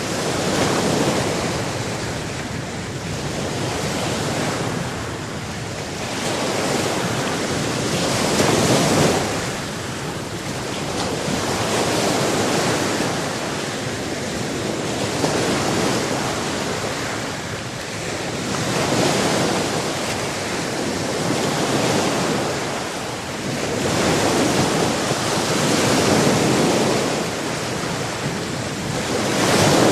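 Sea waves breaking on a shore, the surf swelling and easing every few seconds in a steady rhythm, with some wind.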